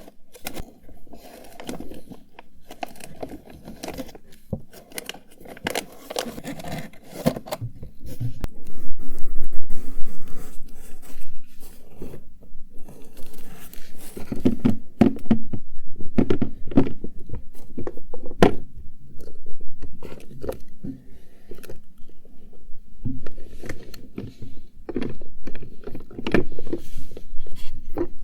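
Cosmetics and small containers being handled and rummaged through: scraping and rustling with many short taps and knocks, loudest about nine to ten seconds in.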